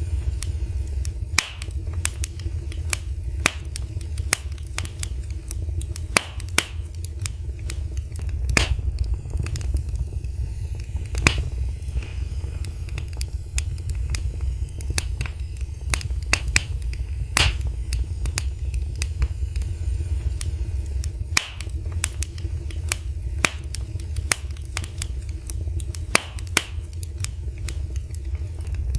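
Wood fire burning in a fireplace: a steady low rumble of flames with frequent irregular sharp crackles and pops from the burning wood, a few of them louder.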